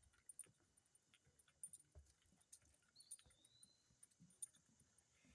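Quiet woodland background with soft, irregular footfalls on a trail, faint high insect ticking, and one short whistled bird call about three seconds in.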